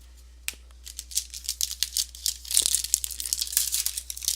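Foil trading-card pack wrapper being crinkled and torn open, a single click about half a second in and then a dense run of quick crackles from about two and a half seconds.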